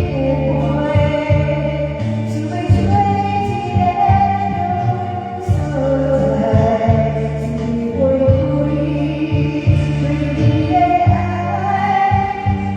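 A woman singing a slow song over a karaoke backing track with a steady bass line, holding long notes.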